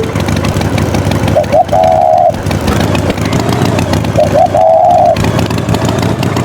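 An engine running steadily, with a short held tone, led in by a quick chirp, sounding twice about three seconds apart.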